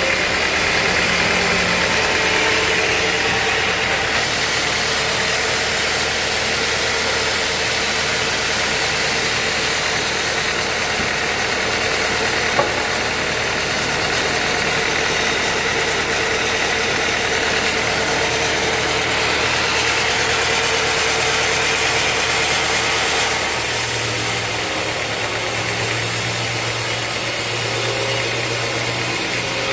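Sawmill machinery running steadily with a continuous motor hum; a single sharp click about twelve seconds in, and a lower hum joins about twenty-four seconds in.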